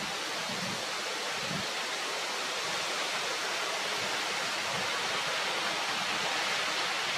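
A steady, even hiss of outdoor noise, with no distinct calls or knocks standing out.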